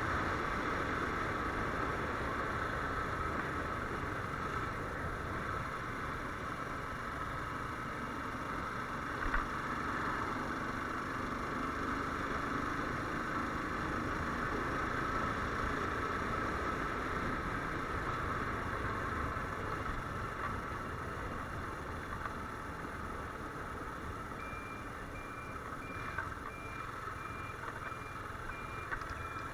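Viper R2 motorcycle running on the move, a steady mix of engine and road noise. A single thump comes about nine seconds in, and a steady repeating beep starts near the end.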